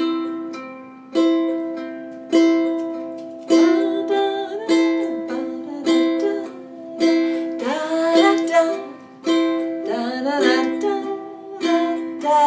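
Ukulele strummed in a reggae 'bounce, down' pattern: a soft partial strum on the top strings, then a full down strum, a strong strum a little more than once a second, with a voice humming the melody over it from about four seconds in.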